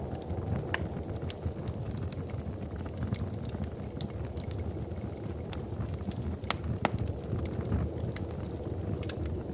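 Fire burning in a fireplace: a steady low rumble of flames with irregular sharp crackles and pops, a few of them louder.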